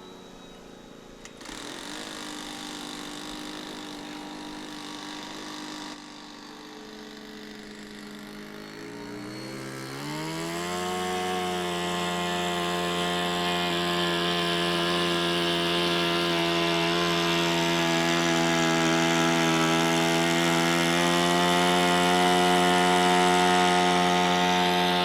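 Electric motor and propeller of an OMP Decathlon RC plane at high throttle, a buzzing whine that climbs in pitch about ten seconds in, then holds steady and slowly grows louder, as the plane hangs on its prop in a torque roll.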